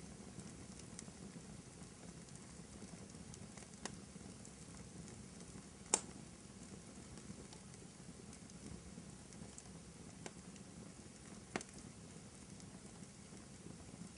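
Fireplace fire crackling softly over a low, steady rumble, with four sharp pops, the loudest about six seconds in.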